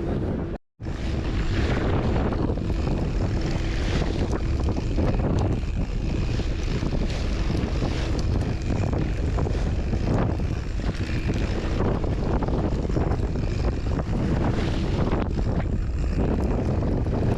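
Wind buffeting the microphone on a fishing boat running through choppy water, with the boat's engine underneath. The sound cuts out completely for a moment under a second in, then carries on steadily.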